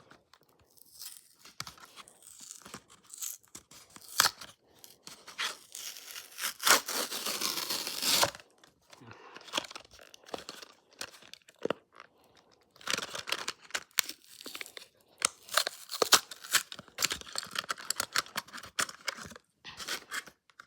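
Hot Wheels cardboard-and-plastic blister pack being torn open by hand: irregular tearing, ripping and crackling, with a longer tear about six seconds in and a busy run of tearing and crackling through the second half.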